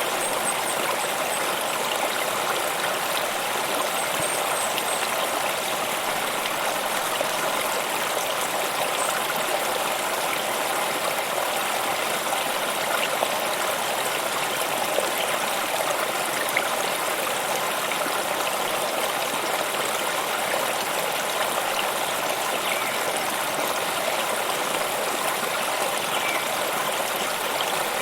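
A stream of water running steadily, an even, unbroken rush.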